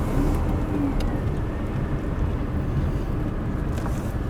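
A vehicle driving on the road: steady engine and road noise.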